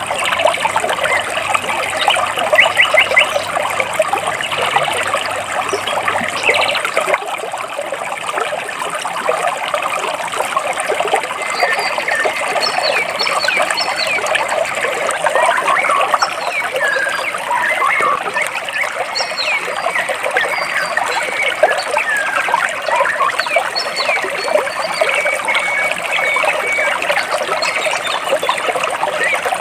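Water trickling and splashing between rocks, a dense continuous patter of small splashes, with birds chirping over it, more often in the second half.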